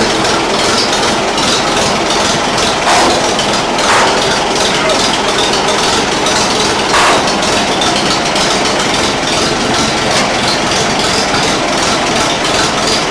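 1940 Fordson N tractor's four-cylinder side-valve engine idling steadily, with three light metallic clinks.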